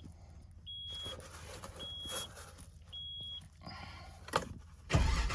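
Nissan Frontier's warning chime beeping about once a second, then the starter cranks briefly and the engine fires about five seconds in on a cold start, settling into a loud, steady run.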